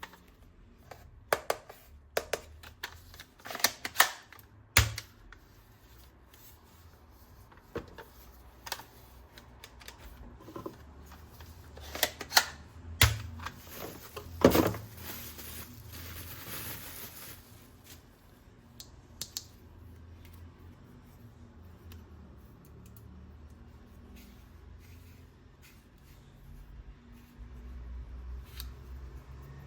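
Plastic toy guns and their packaging being handled: scattered sharp plastic clicks and knocks, busiest in the first half, with a short rustling hiss about halfway through.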